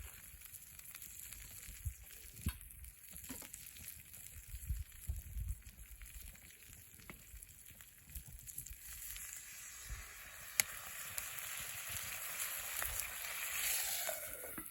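Wood fire burning in a Snow Peak fire pit, sizzling and crackling with scattered sharp pops, one louder pop about two-thirds of the way in. A hiss builds over the last few seconds.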